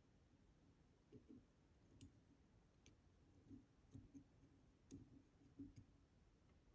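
Faint, scattered clicks and light knocks of a homemade disk detainer pick rotating the disks inside a DOM Diamant 11-disk disk detainer lock, about one a second.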